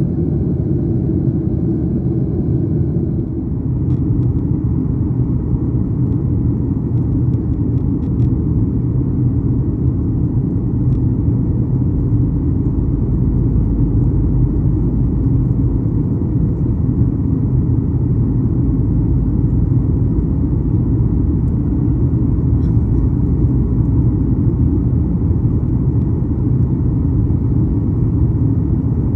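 Steady, loud low rumble of airliner cabin noise, with a few faint clicks a few seconds in.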